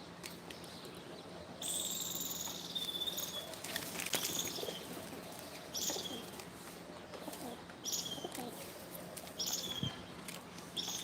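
A parrot calling repeatedly with high, shrill calls: one long call about two seconds in, then short calls roughly every two seconds.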